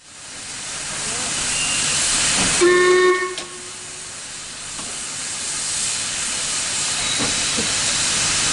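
Steam locomotive hissing steam, the hiss growing louder over the first two seconds, with one short whistle blast about two and a half seconds in.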